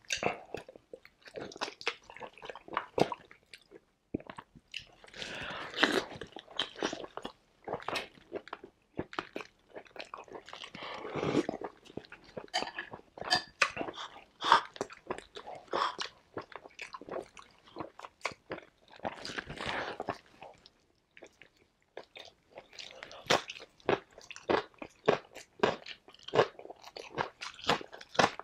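Close-miked eating: a man chewing and crunching food in a run of crisp bites and wet mouth sounds, among them raw cucumber bitten and chewed.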